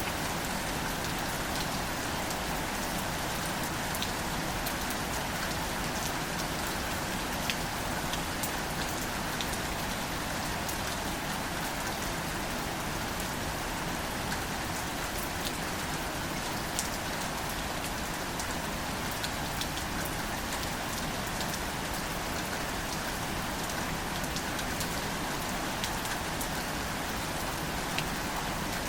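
Steady rain falling on plants and leaves: an even hiss with many small, scattered drop ticks.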